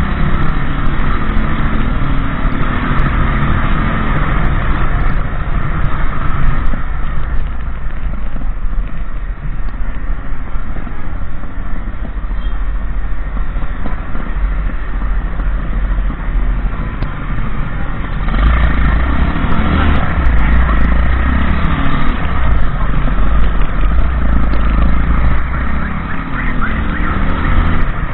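Motorbike engine running on the road under a heavy low rumble, its note rising and falling as the revs change; the rumble grows louder about two-thirds of the way through.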